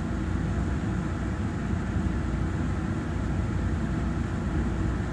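Steady low rumble inside the passenger car of a Taiwan Railway EMU3000 electric multiple unit as it runs.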